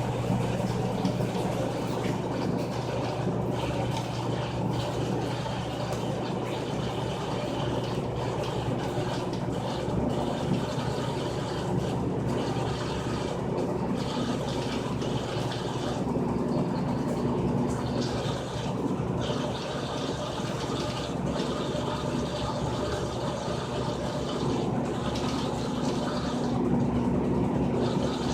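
Frigidaire Gallery Series top-load washing machine running, a steady low hum under the noise of moving water.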